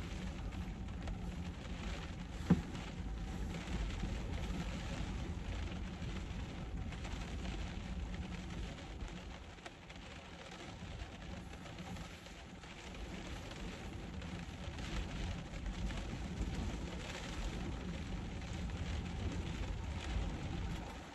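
Steady rain on a camper van's roof, heard from inside, with a low rumble underneath and one sharp knock about two and a half seconds in.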